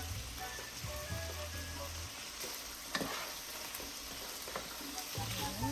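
Chicken thigh pieces sizzling as they fry in a pan of oil, with a sharp knock about three seconds in.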